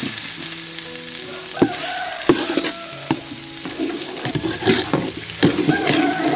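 Curry powder, chili flakes and garlic sizzling in hot oil in a stainless steel pot, stirred with a metal ladle that clinks and scrapes against the pot several times.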